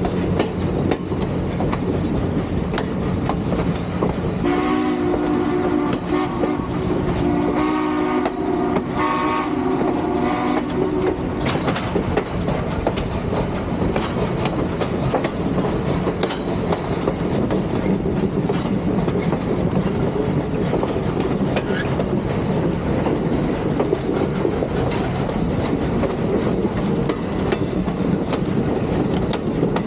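Steam train sounding its whistle in several blasts, from about four to eleven seconds in, over the steady rumble and clatter of the train running on the rails.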